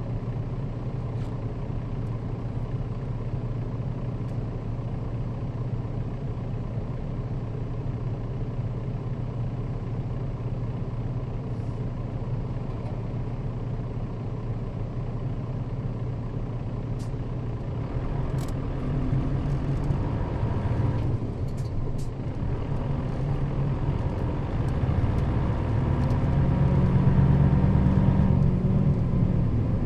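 Nissan Diesel KL-RA552RBN bus driving along, its diesel engine running steadily as heard from inside the bus. The engine grows louder over the last part, with a few sharp clicks and rattles around the middle.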